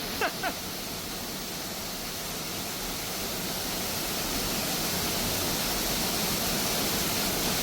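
Waterfall rushing steadily, growing slowly louder, with two short sharp sounds just after the start.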